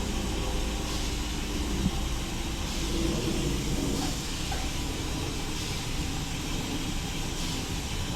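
Automatic car wash running: a steady low rumble of machinery under a hiss of spraying water, with a faint swish coming back about every one and a half to two seconds.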